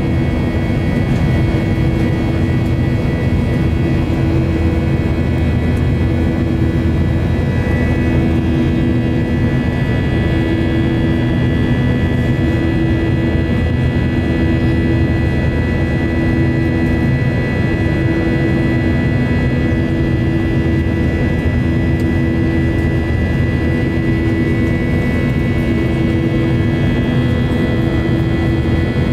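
Boeing 737-800's CFM56-7B turbofan engines heard from inside the cabin in flight: a steady deep drone with a high whine over it. A low hum in the drone swells and fades every couple of seconds.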